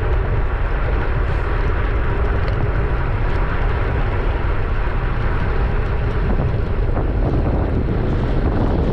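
Steady wind noise buffeting the microphone while cycling, a loud even rush.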